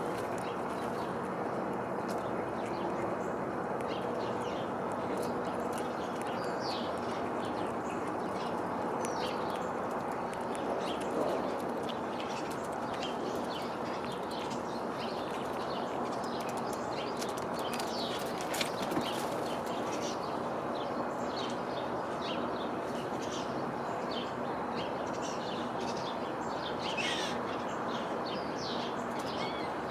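Small birds chirping: many short, high calls scattered throughout, with one longer sliding call near the end, over a steady background rush. A couple of sharp clicks stand out, about 11 and 18 seconds in.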